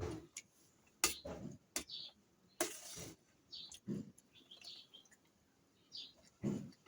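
Close-up eating sounds of someone eating fried rice: chewing and wet mouth clicks and smacks in short, irregular bursts, with small clinks of a spoon on a plate. A short hiss about two and a half seconds in.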